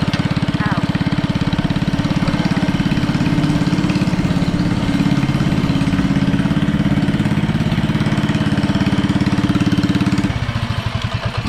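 Honda GX160 single-cylinder engine on a mini bike running steadily, then shut off about ten seconds in, its firing slowing and dying away.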